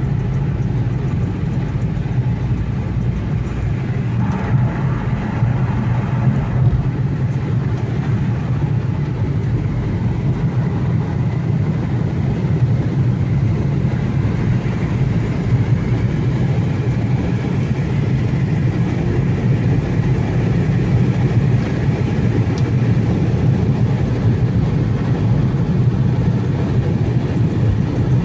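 Infiniti Q70 sedan driving at a steady pace, a continuous low hum of engine and road noise.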